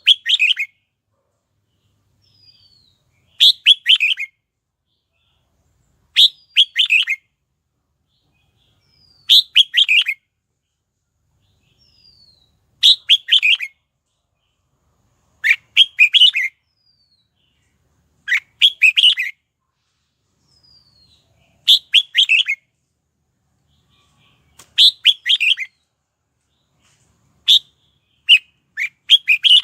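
Red-whiskered bulbul singing its short, chattering song phrase over and over, about once every three seconds, with a faint down-slurred whistle in some of the gaps. This is a lure bird's song, used to call in wild bulbuls and stir caged birds to sing.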